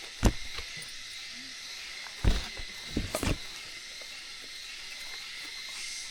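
A few dull knocks: one just after the start, then three between about two and three and a half seconds in. Behind them runs a steady high-pitched whine.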